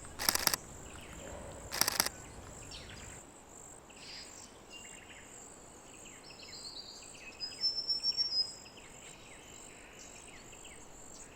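Camera shutter firing in two short rapid bursts near the start, about a second and a half apart. Small birds chirp and call throughout, busiest about two-thirds of the way in, over a steady high insect drone.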